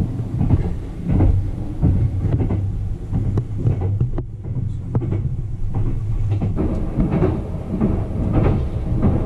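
Sunrise Izumo sleeper train, a 285 series electric multiple unit, running at speed and heard from inside a compartment: a steady low rumble with frequent irregular knocks and clatter from the running gear on the track.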